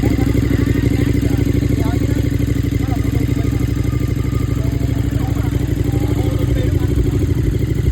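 KTM 1390 Super Duke R Evo's V-twin engine idling steadily, with an even, rapid exhaust beat that holds the same pitch throughout.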